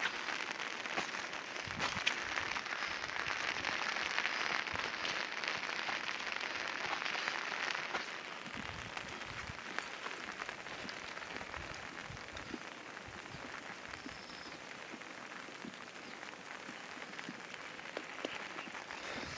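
Rain falling steadily, a dense patter of drops that is a little heavier in the first half and eases after.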